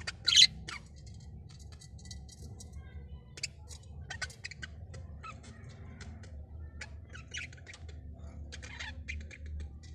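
Several birds giving short, scratchy chirps and squawks in quick irregular succession, the loudest call about half a second in, over a steady low hum.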